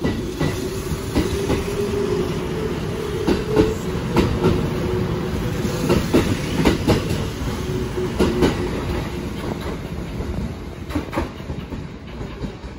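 Kintetsu 'Raku' electric train pulling out along the platform: wheels clacking over the rail joints over a steady motor hum, the sound fading near the end as the last car moves away.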